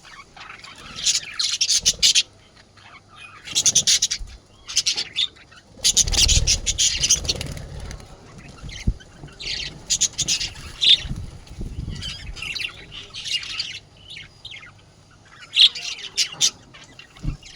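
Budgerigars squawking and chattering in repeated short, harsh bursts with gaps between them. A low rumble sits under the loudest burst about six seconds in.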